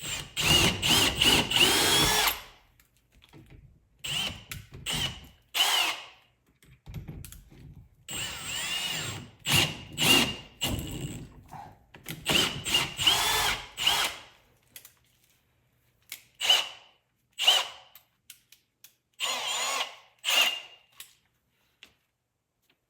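Power drill with a pilot bit boring the mounting holes. It runs in a dozen short bursts with brief pauses between, its motor whine rising and falling in pitch.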